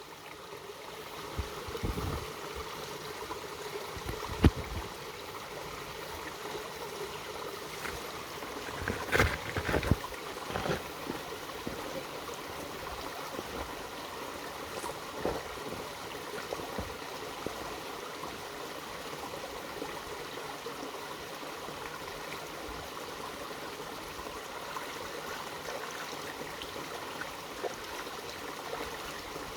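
Mountain stream flowing steadily over rocks. A few brief thumps stand out about 2 and 4.5 seconds in, and a cluster of louder ones around 9 to 10 seconds.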